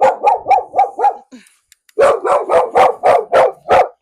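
Dog barking in rapid volleys of about four barks a second: five barks, a pause of under a second, then a run of about eight more. This is a fearful, reactive dog barking at an unfamiliar person.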